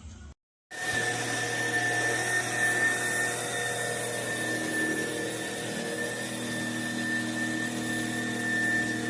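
Trucozie cordless stick vacuum cleaner's motor running steadily with a high-pitched whine. It cuts in abruptly just under a second in, after a moment of silence.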